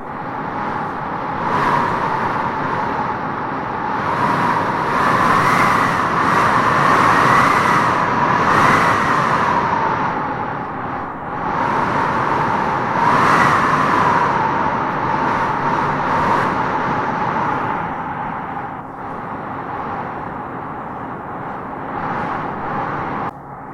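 Strong wind howling in gusts through trees, a wavering whistle-like howl over a steady rush. It swells to its loudest a few seconds in and again around the middle, then eases off.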